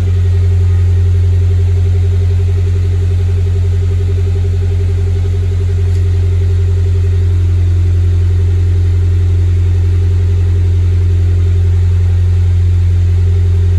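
2001 Honda CR-V's B20Z four-cylinder engine idling steadily through a straight-piped exhaust, just after start-up: the muffler is deleted, the catalytic converter and resonator are still on. It is a loud, even, deep drone.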